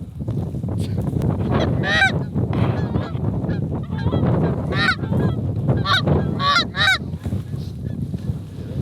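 Geese honking: a few short, bending honks, one about two seconds in and a quick run of them near the middle, over a steady low rumble.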